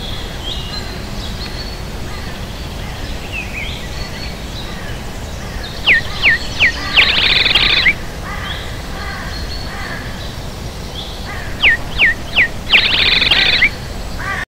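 Birdsong over a steady low background noise: a bird gives three quick downward-sweeping whistles followed by a rapid chattering trill, and the same phrase comes again about six seconds later, with fainter chirps in between.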